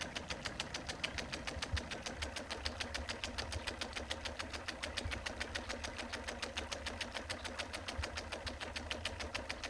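Battery-powered spinning-wing decoy with its animator running: a steady, rapid mechanical ticking, about seven ticks a second.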